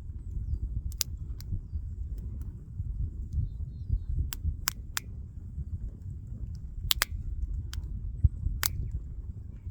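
Wood fire crackling: sharp, irregular pops and snaps, about a dozen, over a steady low rumble.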